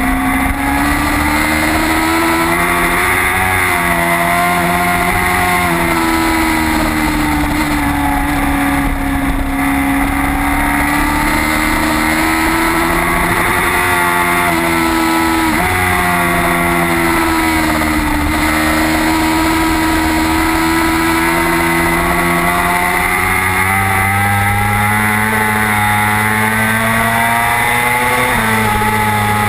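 Onboard sound of a racing motorcycle's engine running continuously over a steady rush of noise. Its pitch drifts gently up and down, with a sudden jump in pitch about halfway through and another near the end.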